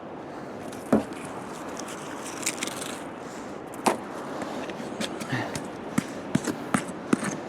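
Steady background hiss with a few sharp knocks: one about a second in, one near four seconds, and a quicker run of clicks and taps near the end.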